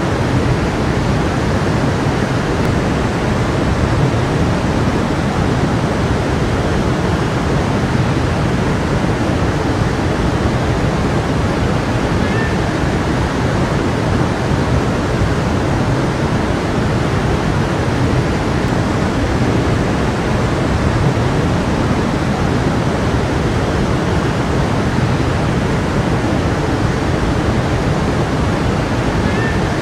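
A stream of water flowing steadily, a continuous even rush.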